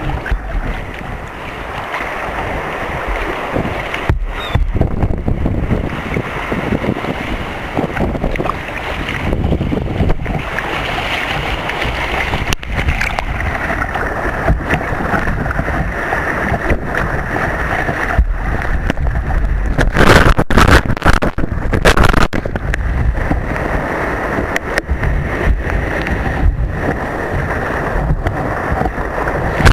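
Wind buffeting the microphone over the rush of surf around a sea kayak, with sudden sharp hits of water. The loudest cluster of hits comes about twenty seconds in.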